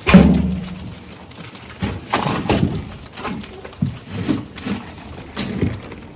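A heavy thump with a low ringing tail, then a run of irregular knocks and clunks.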